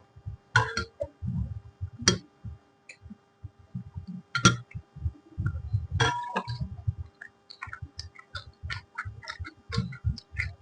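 Close-up chewing and mouth sounds of a person eating: irregular wet clicks, smacks and short soft bursts, with a few sharper clicks about half a second, two seconds, four and a half seconds and six seconds in.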